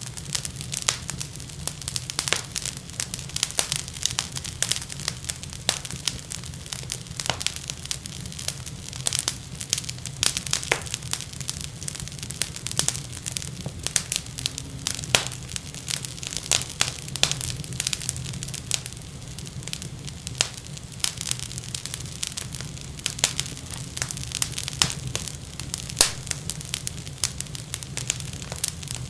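Wood fire crackling and popping in a fireplace: many irregular sharp snaps over a steady low rumble of the flames.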